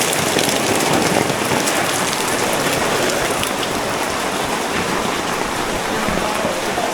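Heavy rain pouring down, a loud, steady hiss of rainfall.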